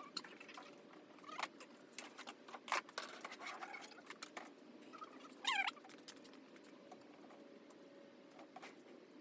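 Scattered light clicks, taps and scrapes, with a short squeak about five and a half seconds in: small parts being handled during work on a truck sunroof.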